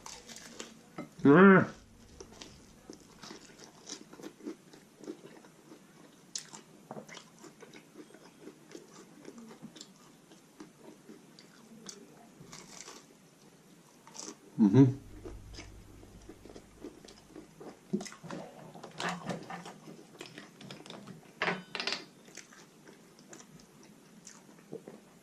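Close-up eating sounds of a man chewing and biting a messy meal: many short wet smacks and crunches. Two brief loud voiced sounds break in, one about a second and a half in and another about fifteen seconds in.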